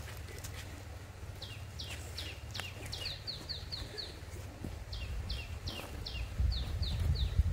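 A bird calling over and over: short, high notes that slur downward, coming in quick runs of several a second and starting about a second and a half in. Underneath is a low rumble that grows louder near the end.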